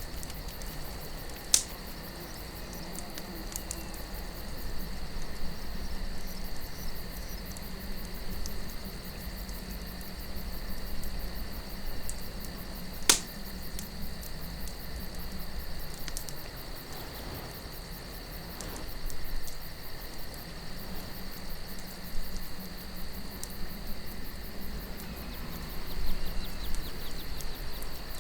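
Campfire crackling, with a sharp pop about a second and a half in and a louder one about thirteen seconds in. Underneath runs soft wind that swells a few times, and a steady high chirring of crickets.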